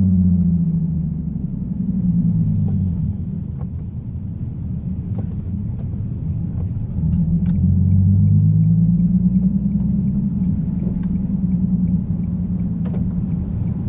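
Nissan Fairlady Z (Z34) VQ37 V6 engine running on the move, a low steady drone that eases off for a few seconds and picks up again about seven seconds in, with scattered sharp ticks over it.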